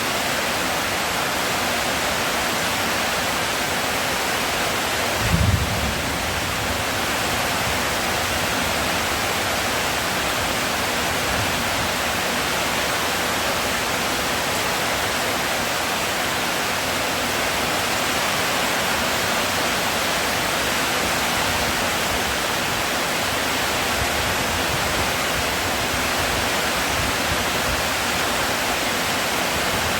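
Heavy rain falling steadily in a constant hiss, with one dull low thump about five seconds in.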